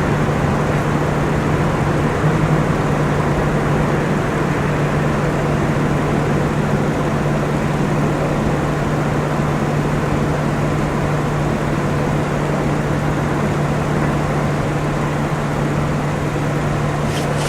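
Steady, loud vehicle rumble with a constant low hum underneath, unchanging throughout.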